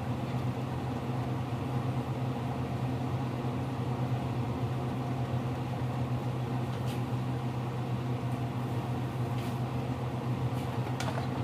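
Steady low hum of a running kitchen appliance or fan, with a few faint light clicks in the second half.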